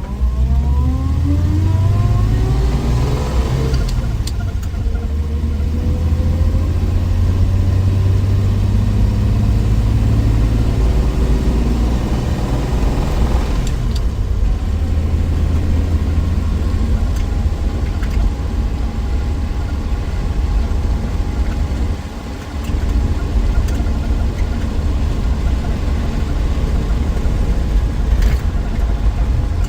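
1963 Willys Wagon's Tornado 230 overhead-cam straight-six running on the road, its pitch rising under acceleration over the first few seconds, then holding steady at cruise. The level dips briefly about 22 seconds in before the engine pulls again.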